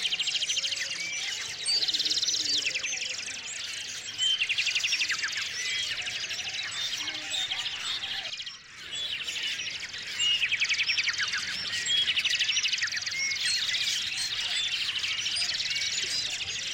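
Several small songbirds chirping, with rapid high trills of evenly spaced notes recurring every few seconds among scattered short chirps.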